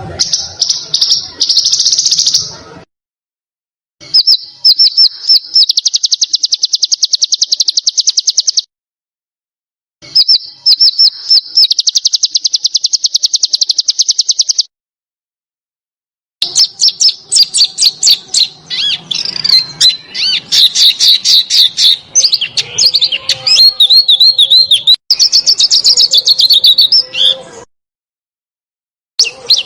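Recorded songbird song in four bursts of rapid-fire repeated high chirps, the kind of 'tembakan' notes that masteran recordings are made of. The bursts are separated by abrupt gaps of silence. The last burst is the longest and most varied, with trills and notes that rise and fall.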